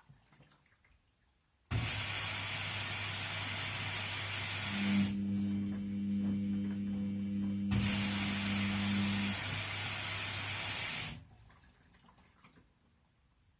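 Washing machine taking in water: a steady hiss of rushing water with a low hum. It starts suddenly about two seconds in, thins briefly midway, and cuts off abruptly a couple of seconds before the end.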